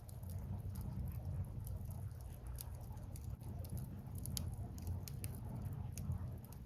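Burning firewood crackling, with sharp pops scattered irregularly over a steady low rumble.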